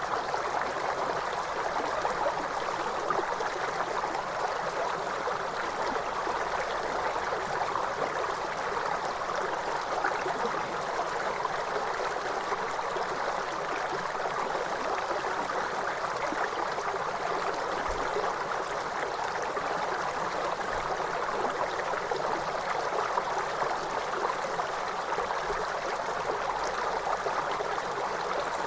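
Waterfall water rushing and splashing in a steady, unbroken stream.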